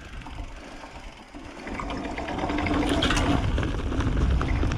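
Mountain bike rolling down a rocky dirt trail: tyre noise and rattling with wind rumble on the helmet camera, building from about two seconds in.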